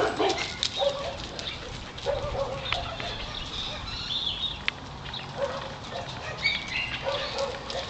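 Dogs barking and yelping on and off, in short separate calls.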